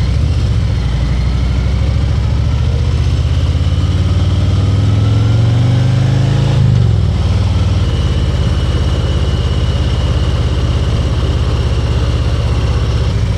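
Harley-Davidson Ultra Limited's V-twin engine under way, its pitch rising steadily as the bike accelerates, then dropping back about six and a half seconds in and running steady after that.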